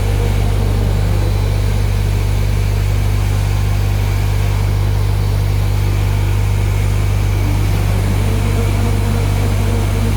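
Tissue folding machinery running with a steady, loud, low electric hum and a faint even mechanical noise over it, unchanging throughout.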